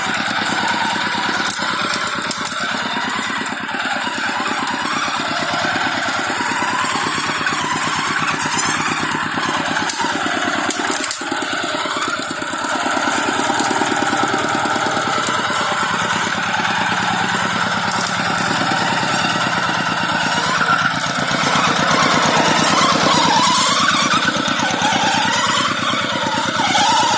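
Tractor engine running steadily, with a fast even chug throughout, a little louder in the last few seconds.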